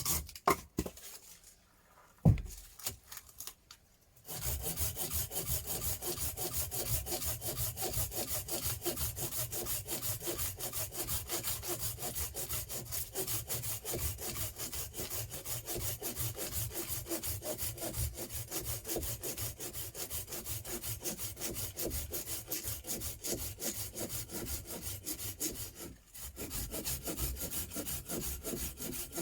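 Hand saw cutting through wood in quick, steady back-and-forth strokes, starting about four seconds in after a couple of knocks and pausing briefly near the end.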